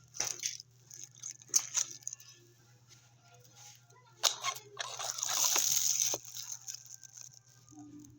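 Eating sounds: crunching and chewing with several sharp clicks, then a longer crinkling, rustling stretch about five seconds in, over a steady low hum.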